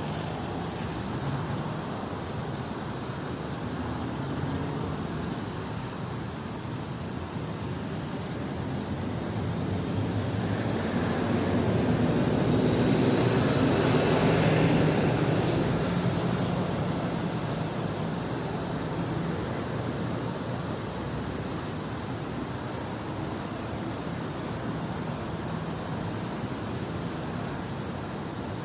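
Steady outdoor background hum, like distant traffic, that swells to its loudest about halfway through and fades again, as a vehicle or aircraft passing. A short, high, falling chirp repeats every two to three seconds throughout.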